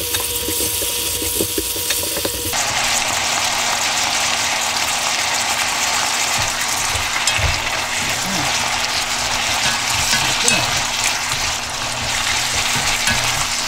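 Thin-sliced beef sirloin and vegetables sizzling in soy-based sauce in a stainless steel frying pan over medium heat, stirred with chopsticks and a wooden spoon, with occasional knocks of the utensils against the pan. The sizzle fills out about two and a half seconds in.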